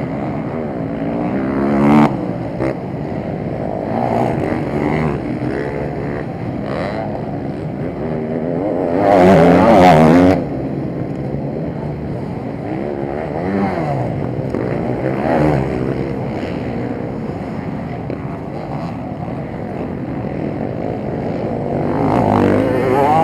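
Motocross motorcycles racing, their engines revving up and down over and over. One bike passes close and loud about nine seconds in for a second or so, and another near the end.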